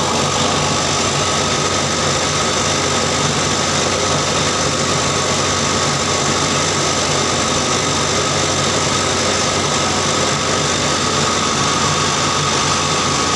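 Eicher tractor's diesel engine running steadily at a constant speed.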